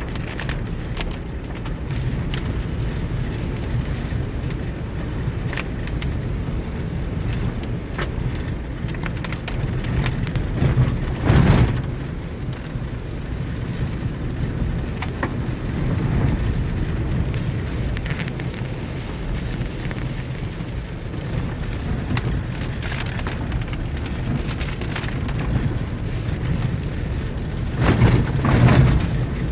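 Rain on a moving vehicle over a steady low road-and-engine rumble, with scattered sharp drop clicks. Two louder swells come through, one about eleven seconds in and one near the end.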